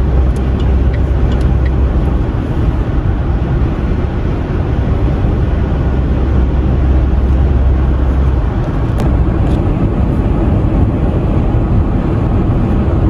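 Steady road and engine noise of a car driving fast on an expressway, heard from inside the vehicle. The deepest part of the drone eases about eight seconds in.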